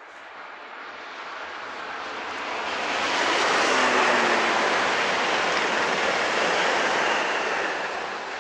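Renfe AVE Series 102 (Talgo 350) high-speed electric train passing at speed: a rushing noise that swells for about three seconds, stays loud for a few seconds as the train goes by, then fades near the end.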